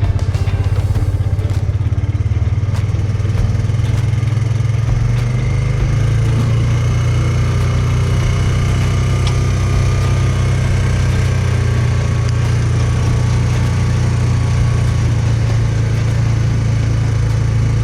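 A vehicle's engine running steadily while driving, a constant low hum with no change in pitch.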